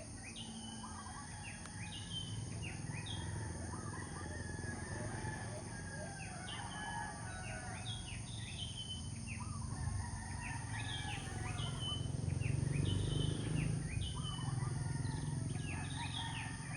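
Morning outdoor chorus of many small birds chirping, with roosters crowing and chickens in the mix. A low background rumble swells about twelve seconds in.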